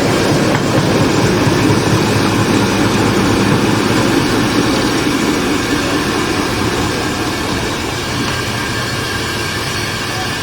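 Steam train running with a steady, heavy rumble that eases off slightly toward the end.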